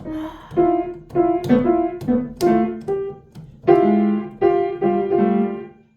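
Music: a piano playing a short melody of separate struck notes, quicker at first, then slower held notes.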